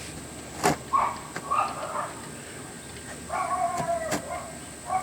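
A socket wrench on the oil pan drain plug, giving a few sharp clicks, the loudest about a second in, with two short whining sounds.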